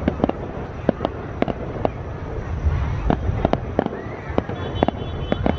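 Fireworks display going off: an uneven string of sharp bangs and crackles, several a second, over a low rumble.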